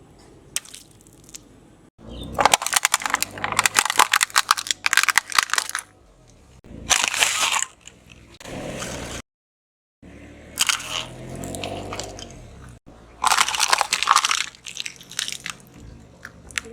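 Objects being crushed under a car's tyre: bursts of dense crunching, cracking and snapping, broken up by abrupt cuts into several separate bursts.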